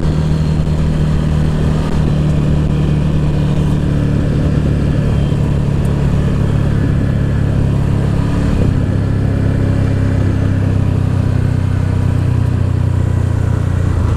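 An off-road vehicle's engine runs steadily at low revs, heard from on board. About eight and a half seconds in, its pitch drops a step as the revs come down.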